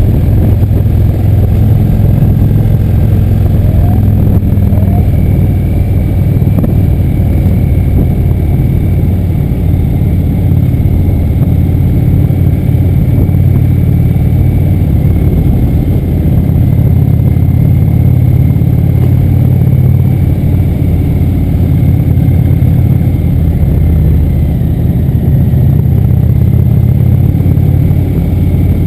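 Motorcycle engine running loud and low at a steady road speed, its pitch shifting a little now and then, with no breaks.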